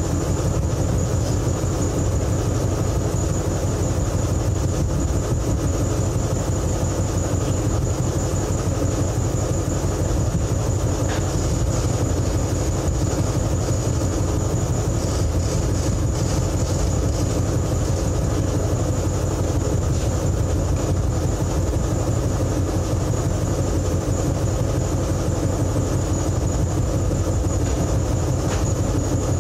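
An engine running steadily at constant speed, with a fast low pulsing and a thin steady high whine over it.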